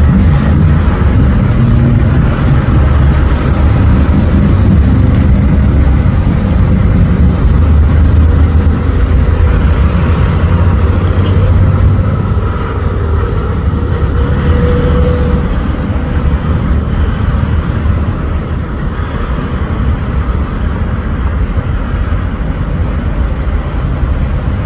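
Cessna 152's four-cylinder Lycoming O-235 engine and propeller running steadily as a loud low drone, easing slightly about halfway through.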